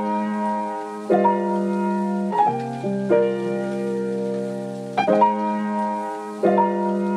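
Instrumental break of a pop song: sustained piano chords, a new chord struck about every one and a half to two seconds, with no vocals.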